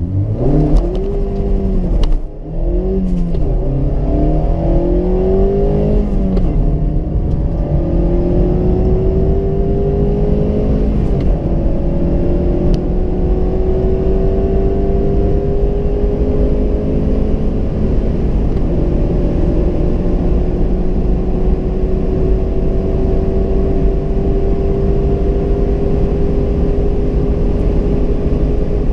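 2016 Mazda MX-5 Miata's 2.0-litre four-cylinder engine under hard acceleration. Its pitch climbs and drops back with quick upshifts in the first few seconds, then rises slowly and steadily through the higher gears, with two more shifts. Wind and road noise run underneath.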